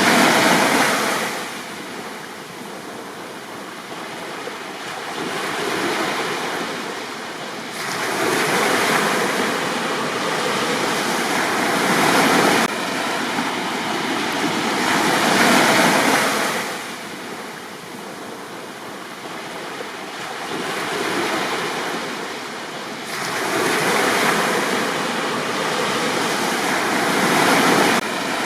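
Sea waves breaking and washing up a beach, the surf swelling and fading in long cycles every several seconds.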